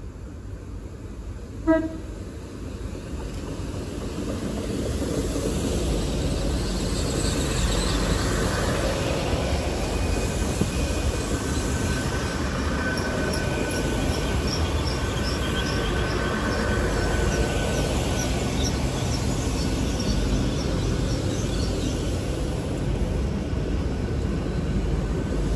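Great Western Railway Class 802 train sounds a short toot on its horn about two seconds in, then rolls past, its rumble and wheel-on-rail noise building and holding steady. A faint thin whine runs for several seconds in the middle.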